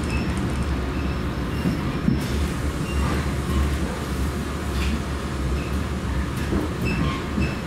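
Train running: a steady low rumble, with short faint high squeaks and a couple of brief clicks.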